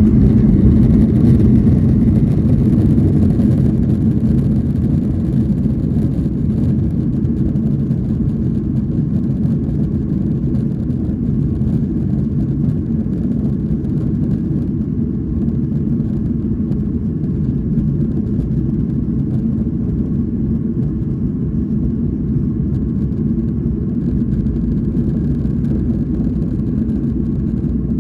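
Boeing 737 jet engines at takeoff power, a loud, steady low rumble that eases off slightly after the first few seconds.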